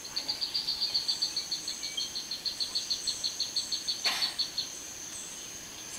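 A nature documentary's soundtrack heard from a television: a rapid, even series of high chirps, about eight a second, over a steady high-pitched hum, ending about four and a half seconds in. There is one sharp click about four seconds in.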